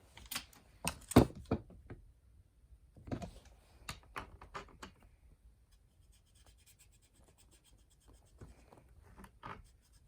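Clicks, light knocks and scraping of hand tools against small metal parts, in bursts, with the loudest knock about a second in.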